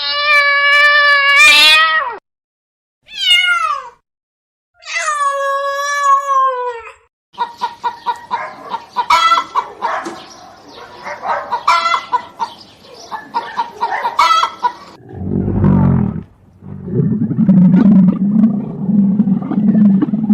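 A run of different animal calls. It opens with a drawn-out pitched call about two seconds long, followed by two shorter calls that fall in pitch. Then comes a long stretch of rapid, short chattering calls, and in the last few seconds a low, rumbling growl-like call.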